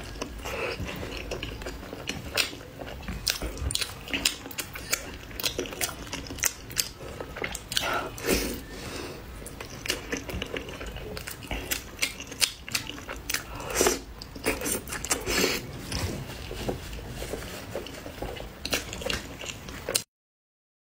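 Close-miked wet chewing and biting of a chewy piece of spicy pork in chili oil, with many sharp mouth clicks and a few longer wet smacks. It cuts off suddenly near the end.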